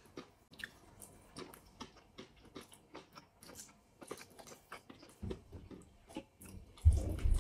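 Soft eating sounds: two people chewing goat rib biryani eaten by hand, with small wet mouth clicks about two or three a second. A low thump near the end.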